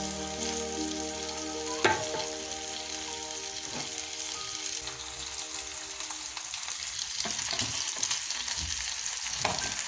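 Shrimp and potatoes frying in oil with a steady sizzle while being stirred with a wooden spatula, with one sharp knock about two seconds in.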